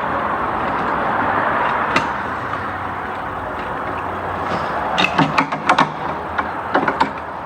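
Hand tools clicking and knocking against metal parts in a car's engine bay, a single click about two seconds in and a quick run of sharp clicks near the end, over a steady hiss.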